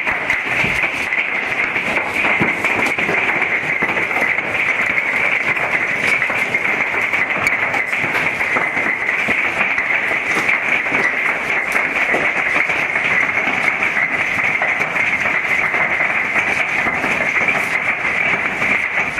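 Golf-ball-sized hail pelting down: a dense, steady clatter of countless separate impacts.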